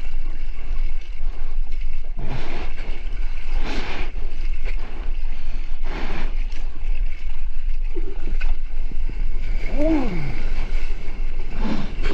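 Steady wind and water noise at sea, with a constant low rumble and gusts or splashes swelling every couple of seconds. A short falling cry sounds about ten seconds in.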